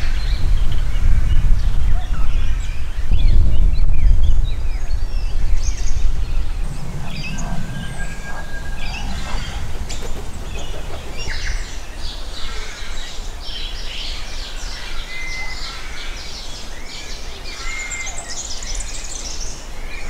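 Several birds calling and chirping, the calls growing busier in the second half, with a few short whistled notes. A low rumble lies underneath, strongest in the first six seconds.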